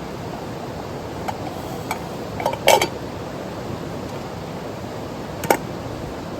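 Mountain stream rushing steadily, with a few light clinks and knocks of camp cookware, the loudest about two and a half seconds in and another about five and a half seconds in.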